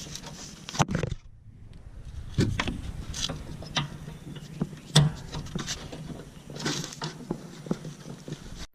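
Scattered metal scrapes, clicks and knocks of a C3 Corvette's vacuum headlight actuator being slid out of its mount by hand.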